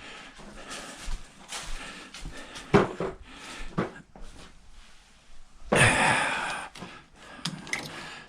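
Scattered knocks and clunks of things being moved around the workbench, with a sharp knock about three seconds in and a loud rasping noise lasting about a second near the six-second mark.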